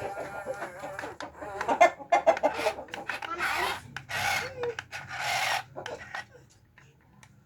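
Sand being scraped and poured as an excavator scoop loads a mini dump truck: three rasping scoops about a second apart, after scattered knocks. Chickens cluck in the background.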